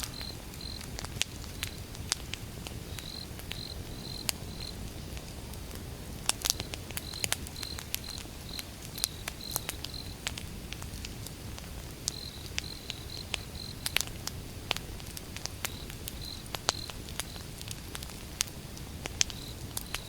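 Campfire burning, wood crackling and popping irregularly over a low steady rumble, with a few sharper pops about six and fourteen seconds in. Crickets chirp in runs of short, high, even pulses throughout.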